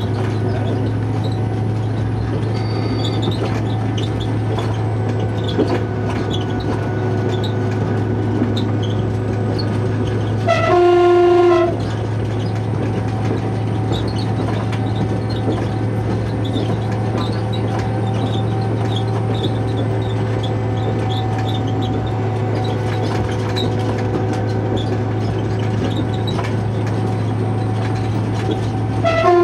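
Diesel railcar of the Chemins de fer de Provence running with a steady low engine drone. Its horn sounds once for about a second, and gives a short toot near the end.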